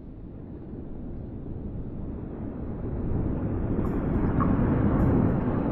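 SBB train rolling through the station, a low rumble that grows steadily louder. Faint high ticks start about four seconds in.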